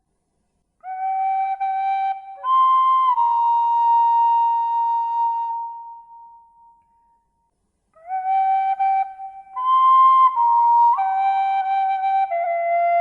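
Slow flute melody of long held notes in two phrases, separated by a short silence about seven seconds in.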